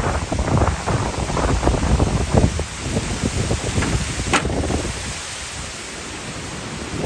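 Tornado wind and rain gusting in surges, buffeting the microphone with a low rumble. A single brief sharp crack about four seconds in.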